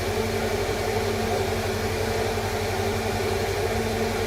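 A steady low machine hum with a constant hiss, unchanging throughout.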